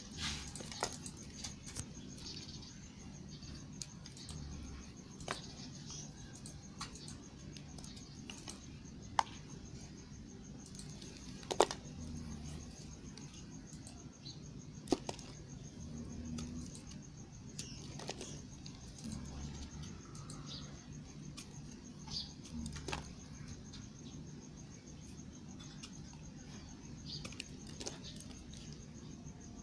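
Bars of soap being handled, with scattered light clicks and taps and a few sharper ticks, over a low steady hum.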